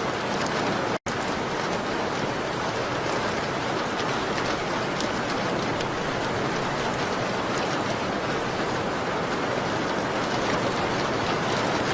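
Steady rain on a window: a dense, even hiss with faint light ticks of drops. It cuts out for an instant about a second in.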